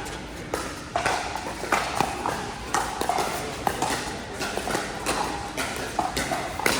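Pickleball paddles striking a plastic ball in a rally: sharp, irregular pops every half second to a second, over a steady background hubbub.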